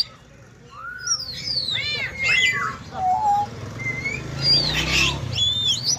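Parrot whistling and chirping: a string of short whistled notes that glide up and down, starting about a second in.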